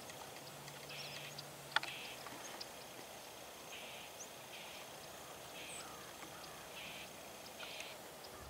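Quiet outdoor ambience of an open field, with a bird giving short calls about once a second. A single sharp click comes a little under two seconds in.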